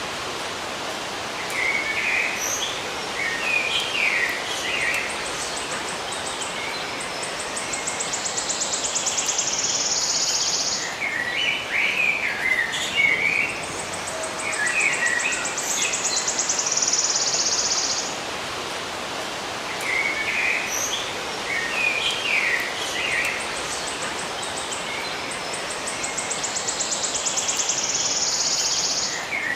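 Small birds chirping in short clusters, alternating with a high, rapidly pulsing insect trill. The same pattern comes round about every nine seconds, as in a looped nature recording.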